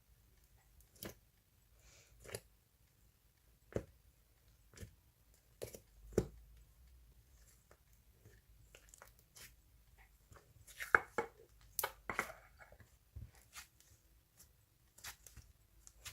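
Scattered small taps and knocks, one every second or so, with a short burst of crinkling or rustling about eleven seconds in.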